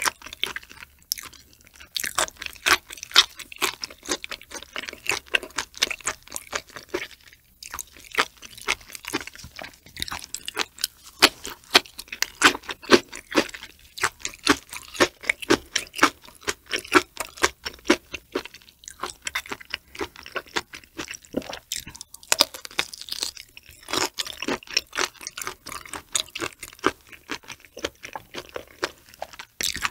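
Close-miked chewing of raw shrimp sashimi topped with flying fish roe (tobiko): dense crunchy clicking and popping, several clicks a second, with short pauses about a second in and around seven seconds.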